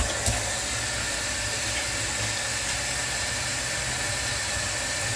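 Kitchen faucet running a steady stream into the sink, turned on abruptly.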